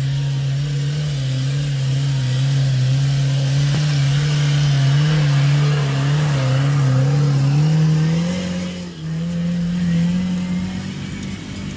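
Off-road 4x4 engine held at high revs under load while climbing. Its pitch stays steady, then rises about eight seconds in, with a brief dip just after.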